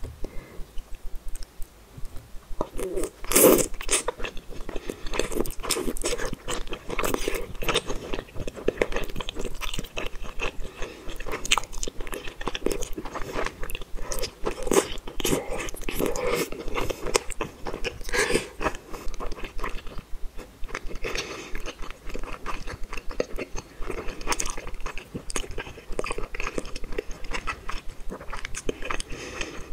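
Close-miked chewing of chewy tteokbokki rice cakes: a fast stream of small clicks and mouth noises, starting with a loud bite about three seconds in.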